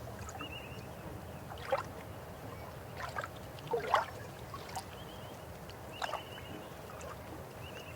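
River water running with a steady low rush, broken by gurgles and splashes, four of them, the loudest just before the middle.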